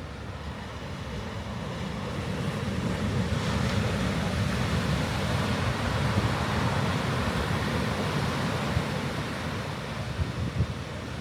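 Ocean waves breaking on the beach, a wash of surf that builds over a few seconds and slowly fades, with wind buffeting the microphone.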